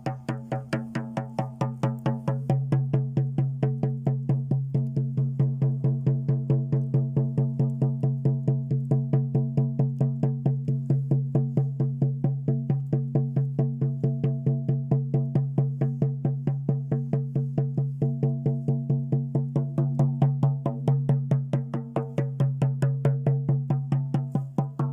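Shaman's frame drum beaten in a steady, even rhythm of about three strokes a second, its low tone ringing on between strokes.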